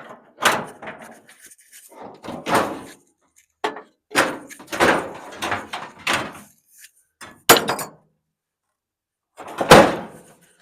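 Sheet-metal front panel and door of an electric clothes dryer being wrenched loose and handled: a string of irregular metal bangs, clanks and rattles, the loudest a heavy bang near the end.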